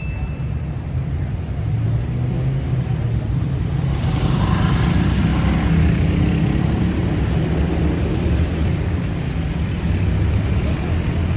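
City street traffic: a steady rumble of road vehicles, with one vehicle passing close about four to six seconds in.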